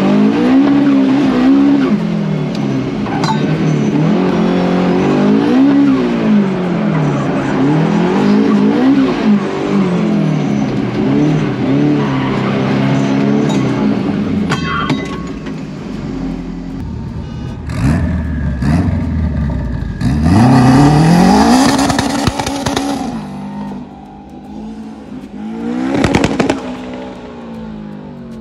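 Car engine revving up and falling back again and again, heard from inside the cabin as it is driven hard around an autocross course. In the later part a car's engine rises sharply with a loud rush of tyre and exhaust noise, then surges once more briefly near the end.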